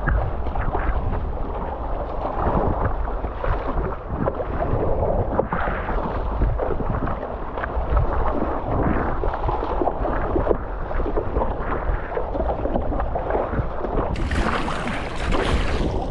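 Wind buffeting the microphone over water sloshing around a stand-up paddleboard on choppy sea, with a louder, brighter hissing rush near the end.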